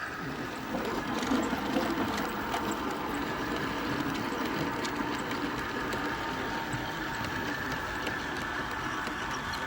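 Model train running on the layout: a steady small electric-motor hum with scattered light clicks from the wheels on the track.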